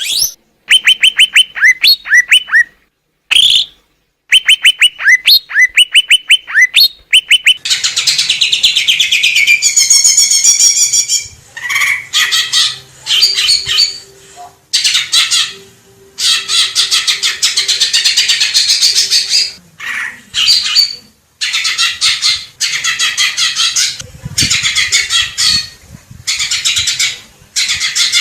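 Greater green leafbird (cucak ijo) singing loudly. The first several seconds are bursts of rapid, sharp repeated chirps. After that come long runs of dense, varied warbling chatter, broken by short pauses.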